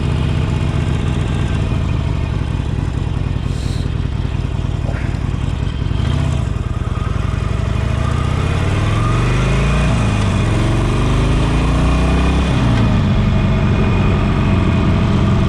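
2018 Harley-Davidson Sportster 48 Special's air-cooled Evolution 1200 cc V-twin running under way, steady at first, then climbing in pitch and falling back twice as it shifts up through the gears.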